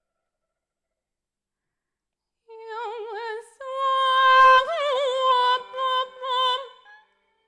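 A woman's voice singing long held notes with wide vibrato, in an operatic style. It comes in after about two and a half seconds of silence and stops shortly before the end.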